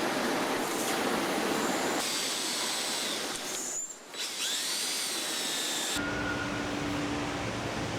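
Engine assembly-line machinery and power-tool noise, a steady mechanical hiss. It changes abruptly about two and six seconds in, dips briefly near the middle, and has a few high whining glides just after the dip. A steady hum runs through the last two seconds.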